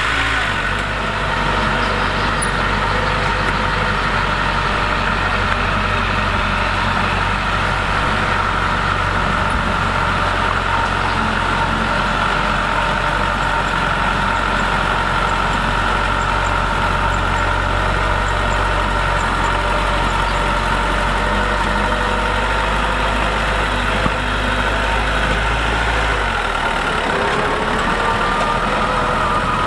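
Diesel engine of heavy earthmoving machinery running steadily, with a constant high whine over the low rumble. Near the end the engine note changes and rises.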